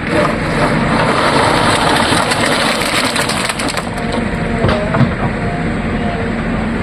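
Loose earth and stones pouring from a backhoe loader's bucket into a dump truck's body, a continuous crunching and crackling rush over the machine's running diesel engine, easing somewhat in the second half.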